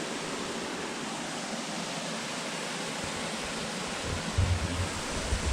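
Creek water rushing steadily over small falls into a swimming hole, with a few low rumbles about four seconds in.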